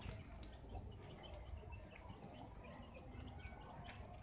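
Faint bird chirps, short and scattered, over a low steady rumble.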